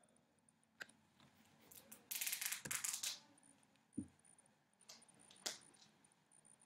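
Scattered sharp clicks and a rattling burst lasting about a second, from a computer mouse and keyboard being worked.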